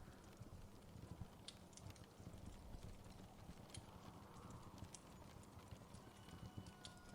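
Faint wood fire crackling: irregular small pops and snaps over a low steady rumble.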